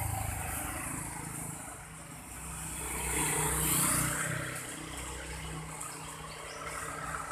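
A motor vehicle's engine running as it passes by, getting louder to a peak about three to four seconds in and then easing off.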